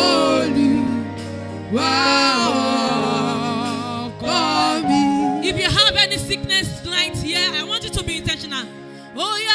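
Gospel worship singing: a voice holding long notes with vibrato over a sustained low accompaniment, turning to quick, bending runs from about halfway through.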